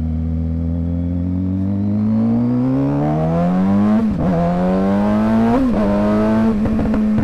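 Suzuki GSX-R sport bike's inline-four engine accelerating through the gears: the revs climb steadily, drop sharply at an upshift about four seconds in, climb again to a second upshift near six seconds, then hold steady.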